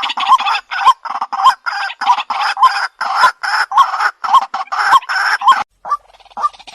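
White-breasted waterhen calls played as a bird-trapping lure recording: harsh, rhythmic croaking notes repeated about two to three times a second. Near the end the calling breaks off briefly and goes on in shorter, sharper notes.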